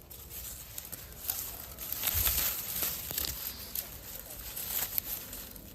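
Dry leaves and twigs of a thorny bush rustling and crackling as they are handled while fruit is picked, with a burst of wind buffeting the microphone about two seconds in.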